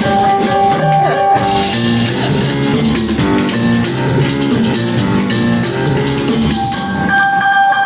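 Live rock band playing with guitar and drum kit.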